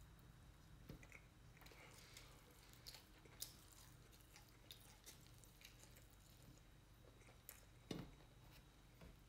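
Faint chewing and small wet mouth sounds of someone eating fried chicken by hand, with scattered soft clicks and a sharper tap near the end.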